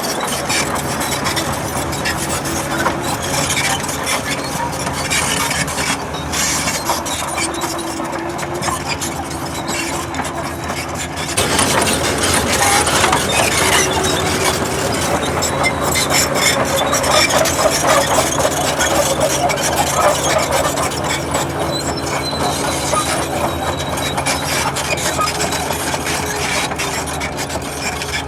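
Heavy earthmoving machinery working: a diesel engine running steadily, growing louder and noisier about eleven seconds in.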